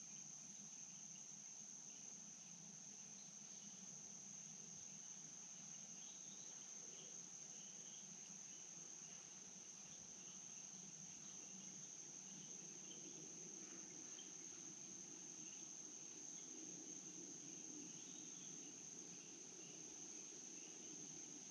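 Insects trilling in a steady, unbroken high-pitched drone, with faint scattered chirps.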